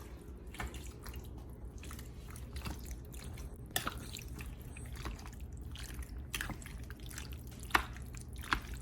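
Raw chicken pieces being mixed through a wet marinade of ginger garlic paste, salt, pepper and oil: irregular soft squelches with scattered sharper clicks.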